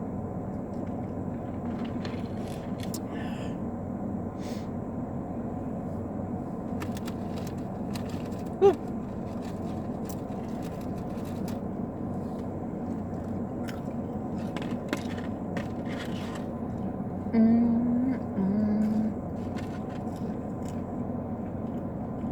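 A person eating a burger: wet chewing clicks and wrapper rustles over the steady hum inside a car. A couple of short hummed 'mm' sounds come near the end.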